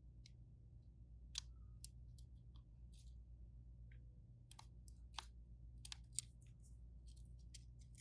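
Small tools clicking and tapping against phone parts during a smartphone repair: a dozen or so short, light, irregular clicks, over a low steady hum.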